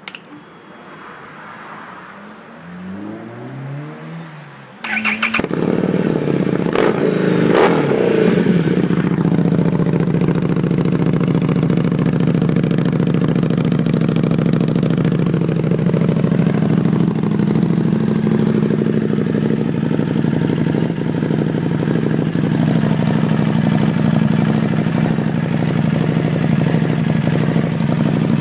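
Harley-Davidson Street 750's V-twin being cranked on the starter, catching about five seconds in, given a quick blip of throttle, then settling into a steady, loud idle through a Vance & Hines slip-on end can with its baffle removed.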